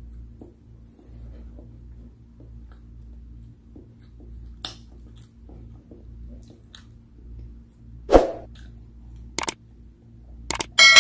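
Soft chewing of a last mouthful of instant noodles over a low steady hum, with a sharp knock about eight seconds in. Near the end come a few click sound effects and a ringing bell ding, the sound of a YouTube subscribe-button overlay.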